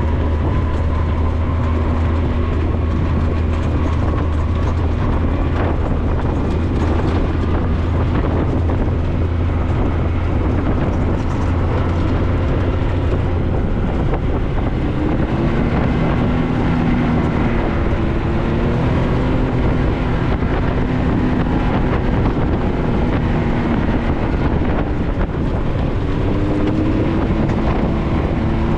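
A 4x4 off-road vehicle's engine and drivetrain running while driving, heard from on board. A deep steady drone for roughly the first half, then the engine note rising and falling with the throttle.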